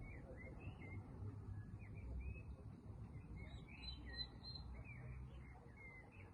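Small birds chirping: a run of short, quick calls one after another, faint, over a low background rumble.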